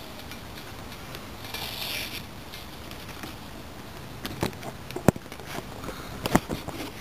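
Masking tape being peeled off a freshly painted metal minibike fender: a short rasping hiss about a second and a half in, then a few sharp clicks and knocks as the tape and fender are handled.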